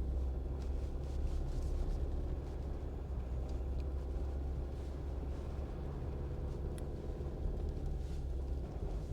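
Jeep driving: a steady low rumble of engine and tyres heard from inside the cabin, with a few faint ticks.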